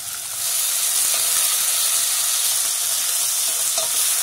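Chopped red pepper and leek hitting hot oil in a stainless saucepan and frying. The sizzle jumps up about half a second in as they land, then holds steady.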